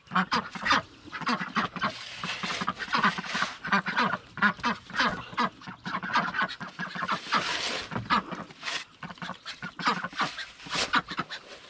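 Several domestic ducks quacking over and over in short, overlapping calls.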